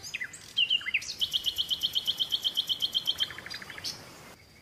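Small bird singing: a few short chirps, then a fast, even trill of about ten high notes a second lasting some two seconds, then a shorter, lower trill. The background cuts off suddenly near the end.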